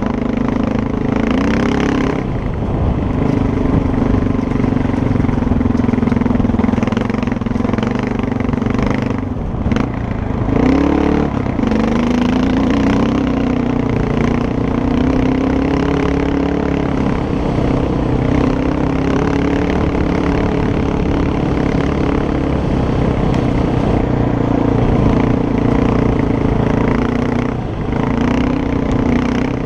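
Dual-sport motorcycle engine running steadily while riding, its pitch dropping briefly about ten seconds in as the throttle is rolled off, then climbing again as it accelerates.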